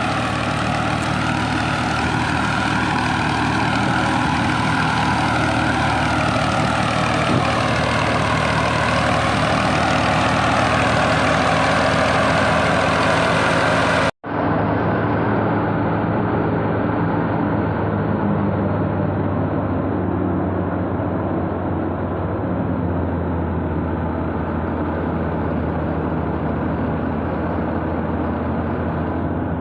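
Wheat threshing machinery, a tractor-driven thresher, running steadily with a loud engine drone. About halfway through, the sound drops out for an instant and comes back duller.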